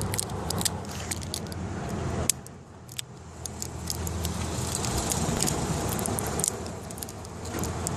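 Blind-pack toy packaging being torn open by hand, with rapid clicks, crinkles and rattles of plastic. A car engine idles steadily underneath, heard from inside the cabin, dipping briefly a few seconds in.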